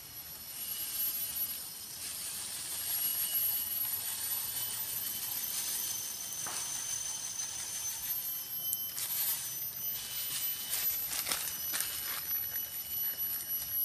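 Forest insects calling in several steady, high-pitched tones that overlap and start and stop at different times. A few sharp clicks come between about nine and twelve seconds in.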